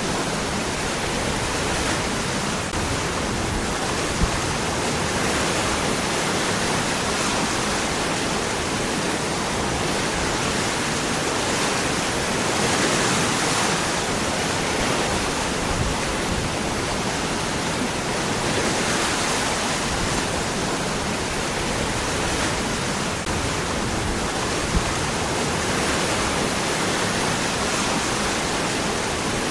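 Waterfall splashing over rocks: a steady, dense rush of falling water that swells slightly now and then.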